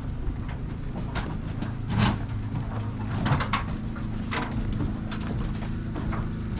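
Boat engine running at low revs with a steady low hum, under irregular knocks and clunks, the loudest about two seconds in.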